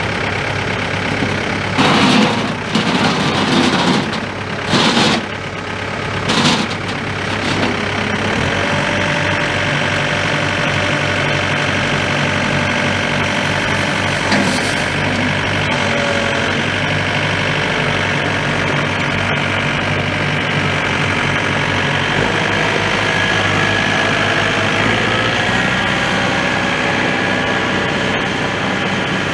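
John Deere 4720's four-cylinder turbo diesel engine running. It gives a few loud surges in the first seven seconds, then settles into a steady run.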